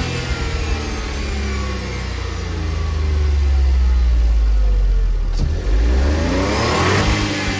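Smart ForFour Brabus's turbocharged three-cylinder H4B engine being revved during a running check: the revs fall back and settle, a single click sounds about five seconds in, then the throttle is blipped again and the pitch rises and drops.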